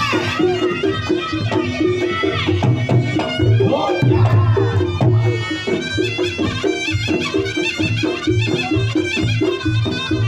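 Reog Ponorogo ensemble playing jathilan accompaniment: a wavering slompret (Javanese shawm) melody over a steady, driving beat of kendang drums and gong-chime pulses.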